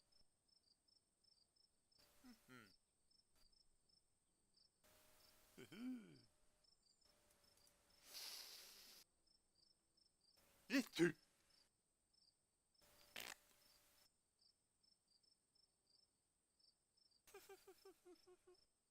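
Faint cricket chirping, a steady run of evenly spaced high chirps, with a few short sound effects over it; the loudest is a pair of sharp sounds about eleven seconds in.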